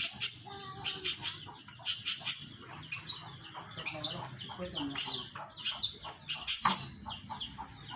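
Caged birds giving loud, shrill chirping calls in short bursts, about one or two a second, over a faint low hum.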